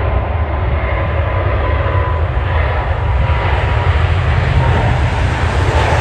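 Jet airliner engines: a loud, steady rumble with a faint high whine held through it.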